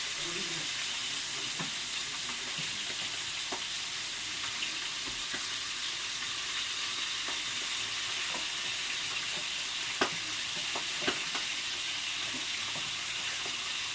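Food sizzling steadily in a hot pan. A few sharp clicks from the cookware, the loudest about ten seconds in.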